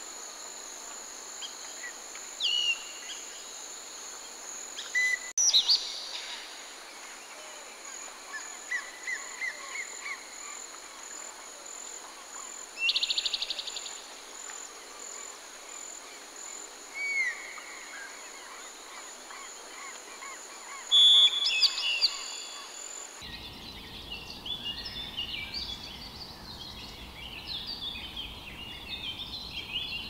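Tropical forest soundscape: a steady high insect drone under scattered bird whistles and calls, with a rapid trill a little before halfway and the loudest burst of calls about two-thirds through. About three-quarters through, the insect drone cuts off and a denser chorus of chirping birds takes over, with a low rumble beneath.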